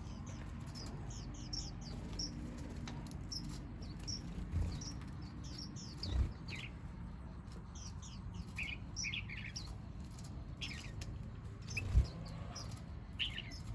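Small songbirds chirping, many short high notes from several birds overlapping. A few dull low thumps, the loudest near the end.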